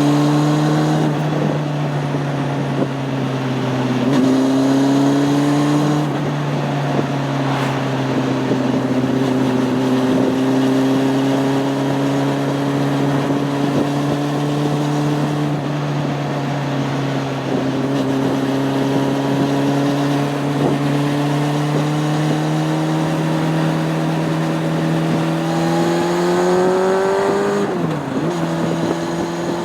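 Honda CB600F Hornet's inline-four engine running under way at steady revs, its pitch drifting slowly over a rush of wind. The revs dip briefly about a second in and again about four seconds in, and near the end rise and then drop sharply, as at a gear change.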